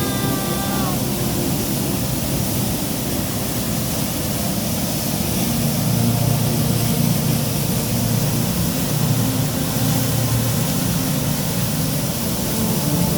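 Steady rush of water, with a low engine drone growing louder about five seconds in.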